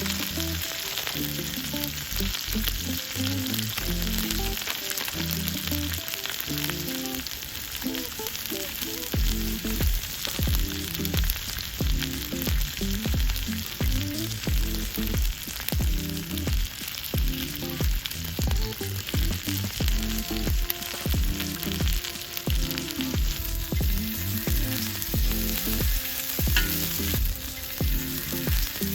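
Food sizzling and frying in a hot pan, with background music underneath; the music picks up a steady beat about a third of the way in.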